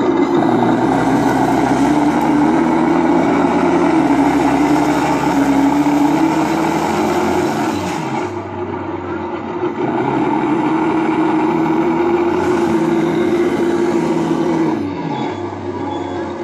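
RC Tiger tank sound unit playing a simulated Maybach tank engine, running with its pitch slowly rising and falling as if revving under load. The engine note drops briefly about eight seconds in and again near the end before picking up again.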